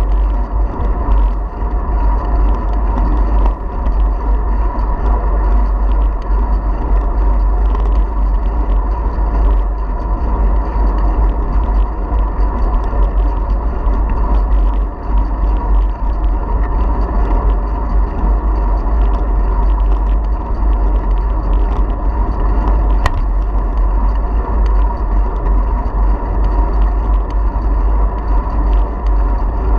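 Wind buffeting the microphone of a camera on a moving bicycle: a steady, loud low rumble with a hiss of air above it.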